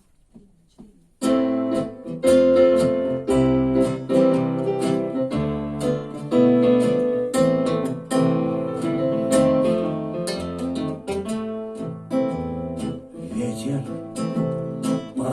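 Instrumental introduction to a song, played on guitar: repeated strummed chords over low bass notes, starting about a second in.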